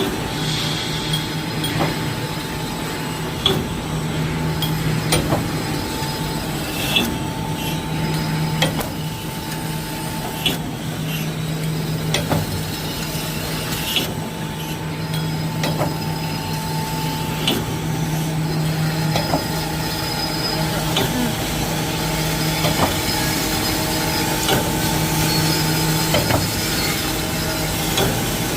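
Wire mesh welding machine running over a steady hum, with a sharp clack repeating about every 1.7 seconds as it cycles through its welding strokes.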